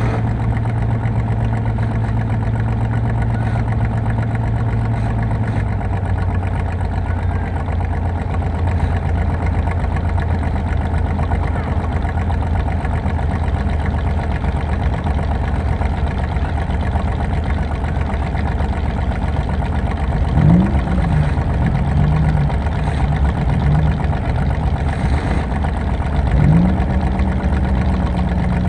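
Car engine idling steadily, its low hum settling to a slightly lower pitch about six seconds in, with two brief swooping tones over it about twenty and twenty-six seconds in.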